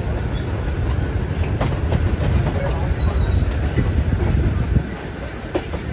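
Train running on the rails, heard from aboard a passenger carriage: a steady low rumble with scattered clacks of the wheels over rail joints and points, easing slightly near the end.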